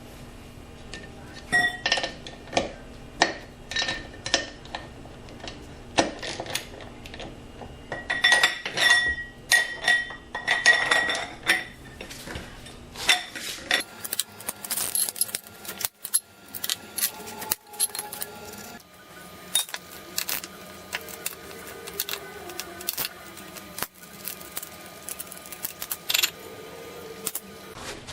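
Metal hand tools clinking and knocking at irregular intervals, with ringing metal-on-metal knocks strongest about a third of the way in: sockets and wrenches being handled while working on a motorcycle's chain and sprockets.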